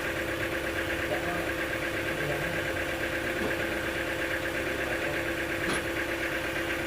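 Engine-driven sawmill machinery running steadily, not cutting: a constant hum with a fast, even chugging pulse. There is a single faint click about six seconds in.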